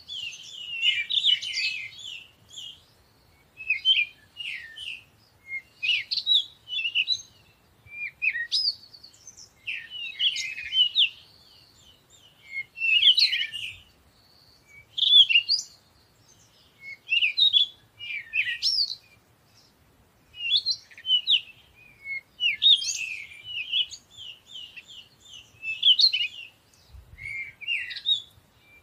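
Bird song: short, quick chirping phrases repeating every second or two with brief pauses between them.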